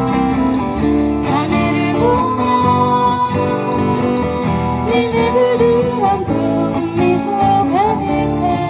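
Acoustic guitars strumming a Korean folk song, with a sung melody carried over the chords.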